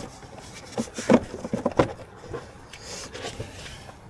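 A few short plastic knocks and scrapes as an engine air filter is pushed into its airbox and the housing is handled.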